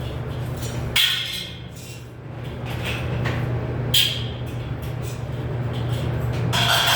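Two sharp metallic clanks about three seconds apart, each with a short high ring, typical of sheet metal being handled. A longer scraping or rattling sound comes near the end, all over a steady low hum.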